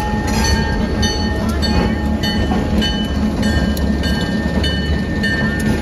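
Passenger train running on the rails: a steady low rumble with repeated clicks of the wheels and a faint thin high tone over it.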